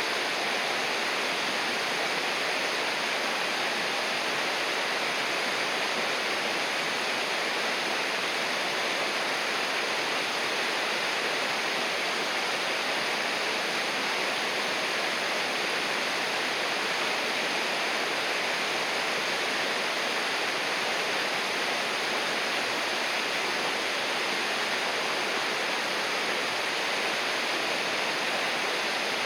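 Flowing river water rushing steadily and evenly, with no breaks or changes in level.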